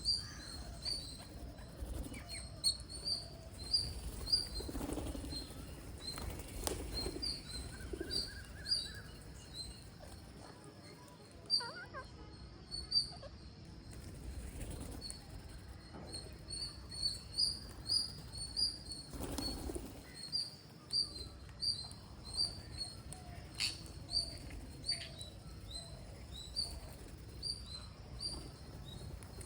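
Green parrots chirping: short high chirps repeated once or twice a second, with a few soft thumps or rustles in between.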